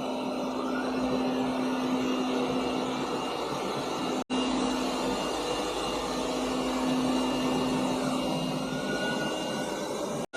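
Robot vacuum running with a steady whir of its suction motor and a low hum, cut off abruptly twice by edits, about four seconds in and again just before the end.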